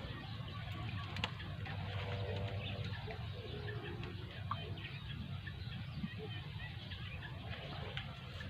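Outdoor ambience: a steady low rumble, with a short bird call about two seconds in.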